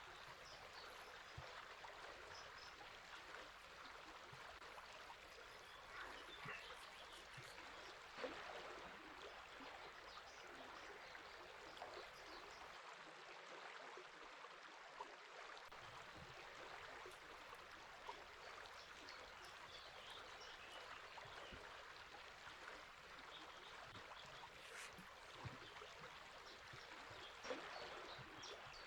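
River water running steadily, a faint even rush with small splashes throughout and a couple of slightly louder brief splashes, one about eight seconds in and one near the end.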